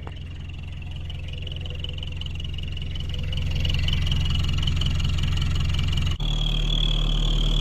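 Engine running with an eBay exhaust-tip turbo whistle fitted, giving a steady high whistle over the engine's low pulse, slowly growing louder. About six seconds in the sound cuts to another engine with a slightly higher whistle.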